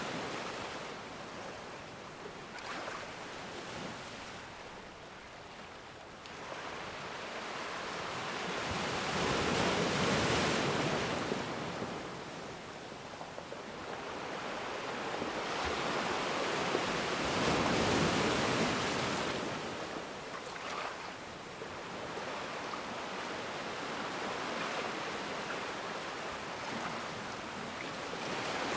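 Ocean waves washing ashore: a steady rush of surf that swells and falls back, with two bigger waves breaking about a third and two thirds of the way through.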